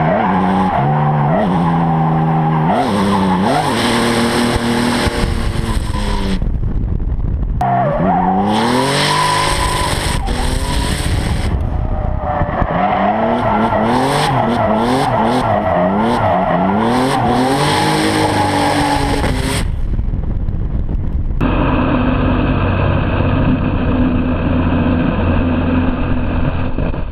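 BMW drift car's engine revving up and down hard and repeatedly through a drift run, with the tyres skidding and squealing under it. The sound turns duller about three quarters of the way through.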